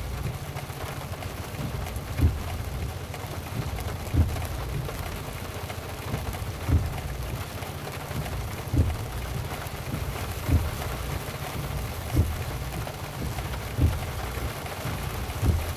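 Heavy rain on a car in motion, with a low steady hum from the car. Short low thumps come about every two seconds, typical of windshield wipers reaching the end of each sweep.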